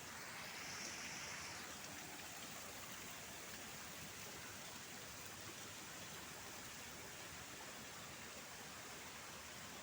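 Faint, steady rushing background noise with no distinct events, briefly a little louder and hissier about a second in.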